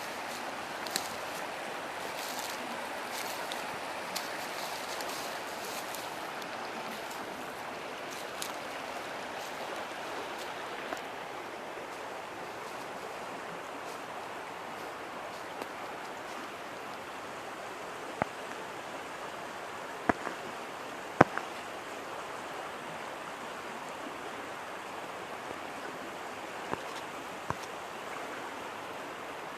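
River water flowing with a steady rushing sound. Scattered sharp clicks and snaps sound over it; the two loudest come close together about two-thirds of the way through.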